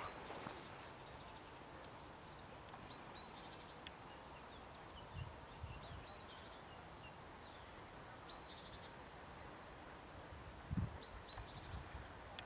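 Birdsong: a small bird repeating short high phrases every second or two over a faint outdoor hiss, with low wind bumps on the microphone about five and eleven seconds in.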